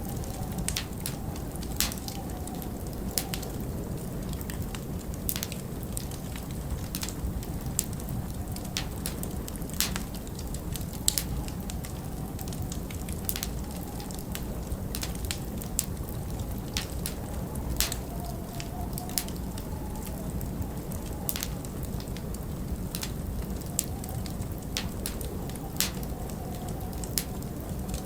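Wood fire crackling, with frequent irregular sharp pops and snaps over a steady low rush of storm wind. A faint wavering whistle of wind comes and goes.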